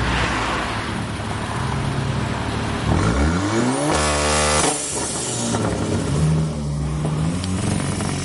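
Car engine running, then revving hard about three seconds in: the pitch climbs steeply, holds for about a second and a half, and drops back.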